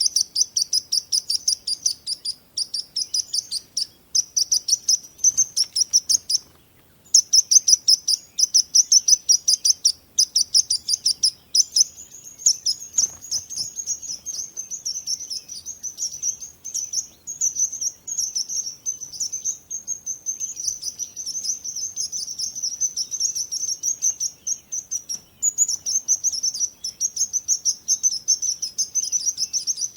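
Songbirds chirping in rapid, high-pitched runs of quick repeated notes. The chirps come in short bursts with brief pauses at first, stop for a moment about seven seconds in, then run on almost continuously.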